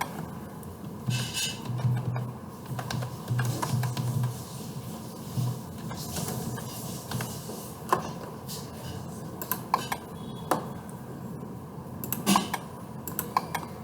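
A few sharp clicks from a computer mouse and keyboard over a low, uneven hum.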